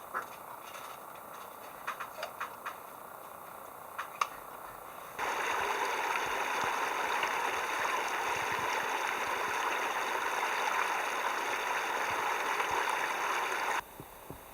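A few faint clicks, then a steady rush of running water that starts abruptly about five seconds in and cuts off sharply near the end.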